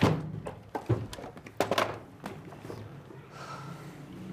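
Several sharp knocks and thuds of household objects being picked up and set down, the loudest right at the start and a few more over the next two seconds, over a low steady hum.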